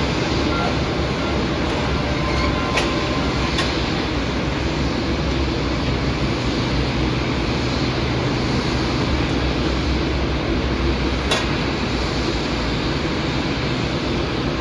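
Steady rumble and hiss of airport apron noise, with a few short sharp clicks.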